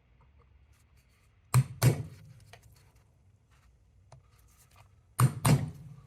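Two pairs of sharp knocks, a steel screwdriver working against the cotter pins and metal parts of a Triumph gearbox's plunger assembly, with quiet between them.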